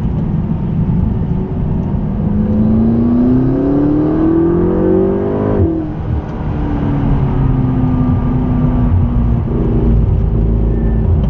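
McLaren 650S twin-turbo V8 pulling hard under acceleration, its revs climbing for about four seconds, then a sudden short break at a gear change about halfway through. After the change the engine note eases down slowly and settles to a steady drone near the end.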